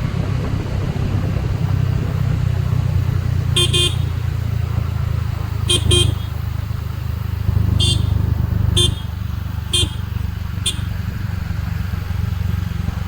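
Motor vehicle horn giving short beeps, two quick double beeps and then four single ones, over an engine running steadily.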